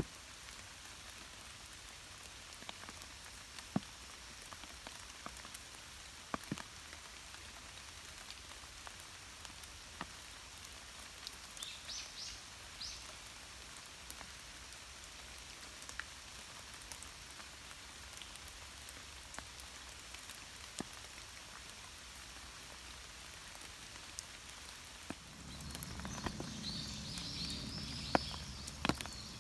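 Steady light rain falling, with scattered drops ticking sharply. A few brief high chirps come about twelve seconds in, and a louder noise joins near the end.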